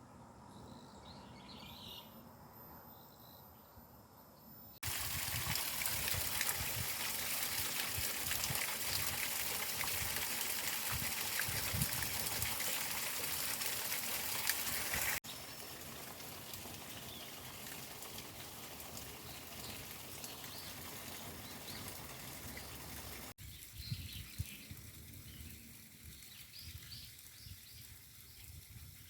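Outdoor garden ambience in several cuts: small birds chirping faintly, then a loud steady rushing noise for about ten seconds, then a quieter steady hiss with birds chirping again near the end.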